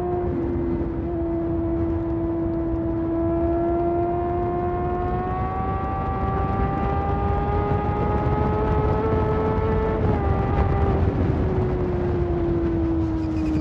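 Honda CBR600RR's inline-four engine running at high revs on a steady throttle, its pitch climbing slowly and then falling away from about ten seconds in, over a low wind rumble.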